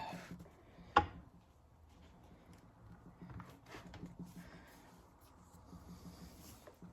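Ford toploader transmission case set down on the bench after being flipped over: one sharp knock about a second in, then a few faint clicks of parts being handled.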